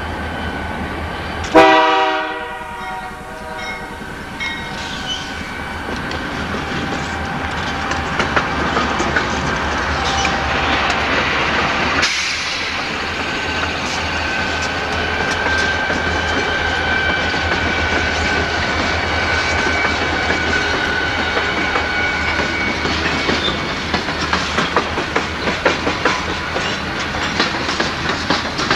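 Freight train passing close by, led by a Canadian Pacific GE AC4400CW diesel locomotive: one short horn blast about two seconds in, the loudest sound, then the locomotives' diesel engines rumble past. Covered hopper cars follow with rhythmic wheel clatter over the rail joints, growing sharper near the end, with a thin steady high tone for several seconds in the middle.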